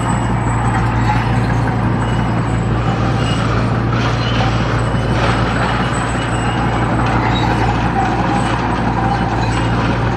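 Heavy diesel engine of earthmoving machinery running steadily under load, a deep, even drone with a rough, rattling texture.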